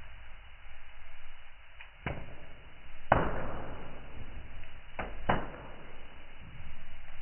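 Wood fire in a fireplace crackling over a steady hiss, with four sharp pops, the loudest about three seconds in.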